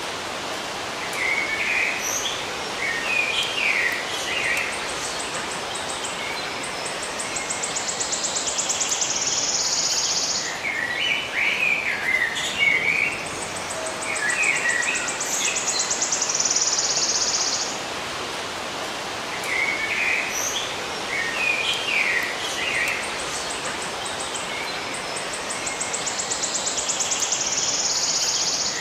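Birds chirping in short bursts of twittering calls over a steady hiss, with a high, pulsing insect trill lasting several seconds between them; the same pattern comes round again about every nine seconds.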